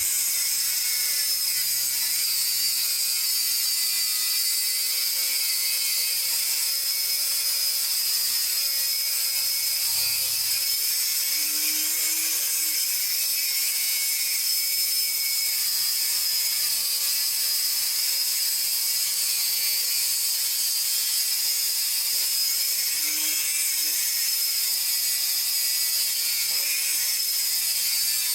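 A power saw running steadily through a long, unbroken cut in steel stock.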